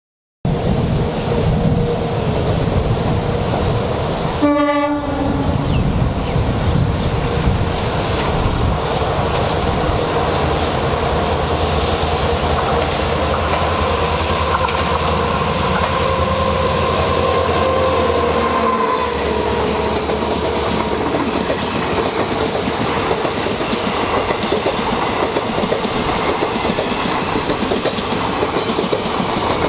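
Indian Railways express train passing on a curve, its wheels and coaches rumbling steadily over the rails, with a short horn blast about four and a half seconds in.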